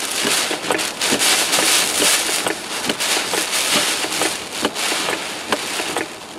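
Hurricane wind and heavy rain pelting a vehicle, heard from inside the cabin: a continuous loud rushing, broken by many sharp cracks of rain and spray striking the body and windshield.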